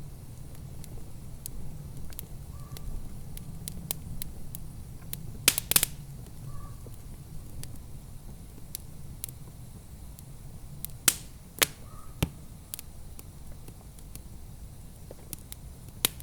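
Wood fire in a fireplace crackling, with sharp pops scattered over a low steady rumble. The loudest pops come in a quick cluster about five and a half seconds in, and again around eleven to twelve seconds in.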